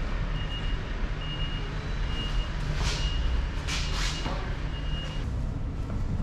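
Vehicle reversing alarm beeping steadily at one pitch, about once a second, stopping about five seconds in, over a running diesel engine. A few short hissing bursts come near the middle.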